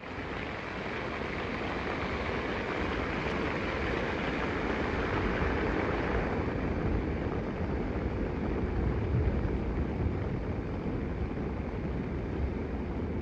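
Steady rushing noise of falling water with a deep low rumble; the higher part of the rush eases off about six seconds in.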